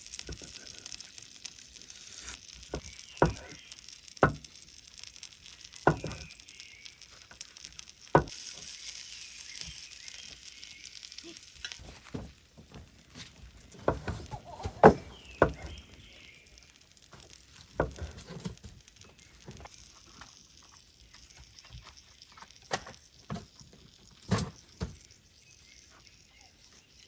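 Food sizzling as it cooks, with scattered clicks and knocks of utensils. The sizzle fades out about halfway through, and the clicks go on.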